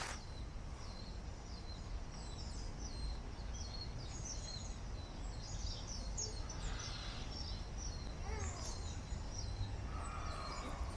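Small birds chirping, many short high falling notes repeated again and again, over a steady low background rumble.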